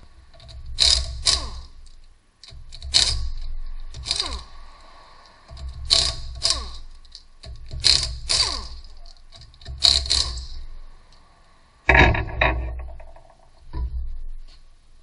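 Impact wrench in short bursts, one to two seconds apart and often in pairs, working a fastener on the rear wheel hub. Each burst is followed by a falling whine as the motor spins down.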